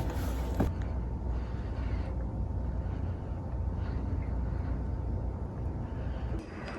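Strong wind rumbling on the microphone, with two sharp knocks at the very start; the rumble eases near the end.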